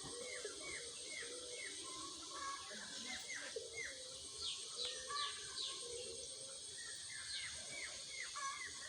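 Small birds chirping, many short falling chirps repeated several times a second.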